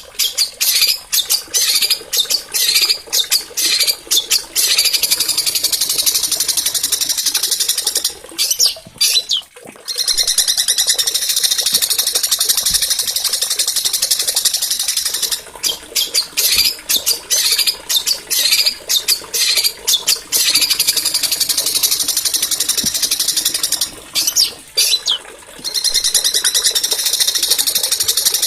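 Small songbird singing long phrases of fast, high-pitched rolling trills, pausing briefly twice.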